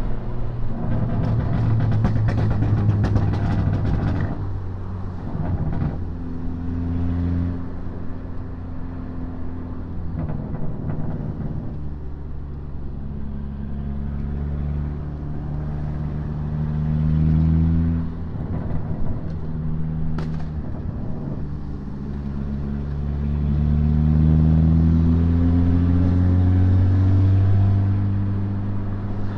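Volkswagen Mk6 GTI's turbocharged four-cylinder engine heard from inside the car while driving. Its note climbs steadily through each gear and drops sharply at each upshift, several times over.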